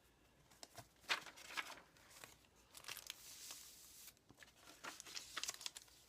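Paper rustling and crinkling in several short bursts as the pages of a handmade paper journal are handled.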